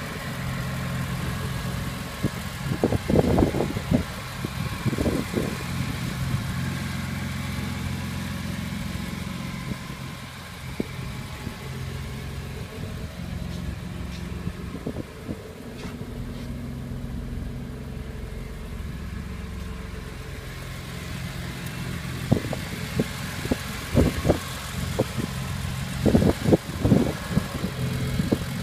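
BMW E46 M3's S54B32 3.2-litre straight-six running at a steady idle, with a few brief louder bursts about three to five seconds in and several more near the end. The engine sounds healthy and is running smoothly.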